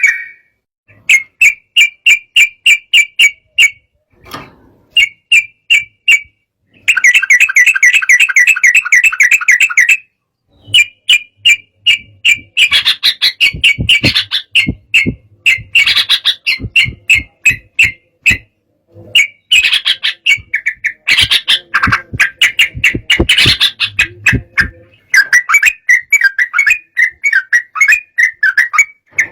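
Yellow-vented bulbul singing in phrases of fast, repeated chattering notes, with short pauses between phrases.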